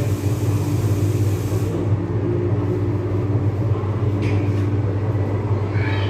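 MTR East Rail Line MLR electric train running, heard from on board: a steady low rumble. A high hiss fades out about two seconds in, and brief high squeals come at about four seconds and again near the end.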